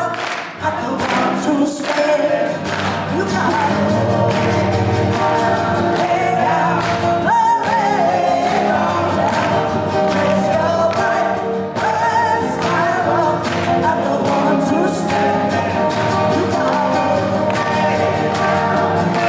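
Live folk-gospel song: singing, apparently several voices together, over guitar accompaniment with a steady beat.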